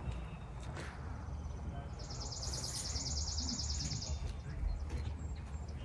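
A bird's high, rapid trill lasting about two seconds, starting about two seconds in, over a low steady background rumble.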